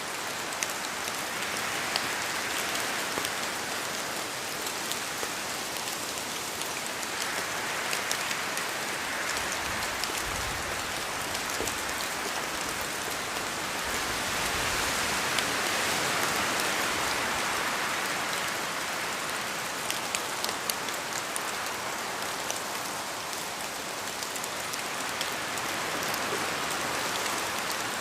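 Steady rainfall, with many individual drops ticking on a surface over a continuous hiss. It swells slightly about halfway through, then eases again.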